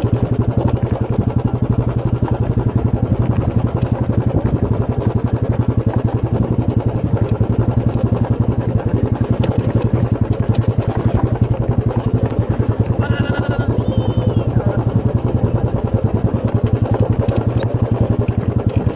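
Motorcycle engine running steadily under way, an even low drone of rapid firing pulses. A brief high-pitched chirping call sounds about thirteen seconds in.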